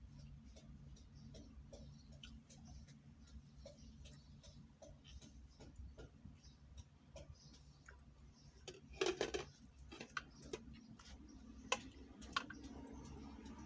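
Faint, irregular clicks and taps over a low steady hum, with a short burst of louder knocks about nine seconds in and two sharp clicks a little later.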